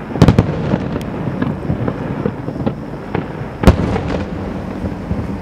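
Fireworks display: aerial shells bursting in a string of sharp bangs over a continuous rumble and crackle, with a quick cluster of bangs at the start and the loudest single bang about three and a half seconds in.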